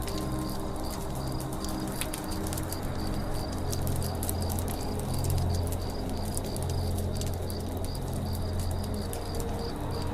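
Wood campfire crackling and popping in a continuous run of sharp snaps, over a high chirp that repeats about three times a second and low, sustained humming tones.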